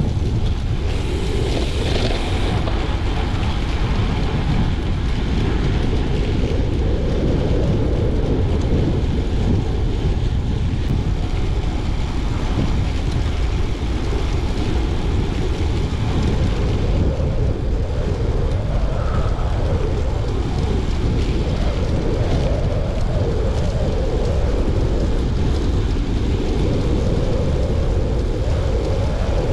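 Steady wind buffeting on the microphone: a constant low rumble with no clear engine note.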